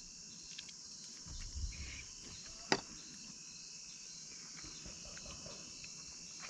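Crickets chirring steadily in a high, even band, with one sharp click about two and a half seconds in.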